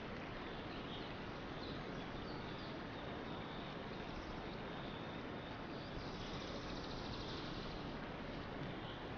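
Steady outdoor ambience: an even hiss with faint high chirps and trills over it, busier from about six seconds in.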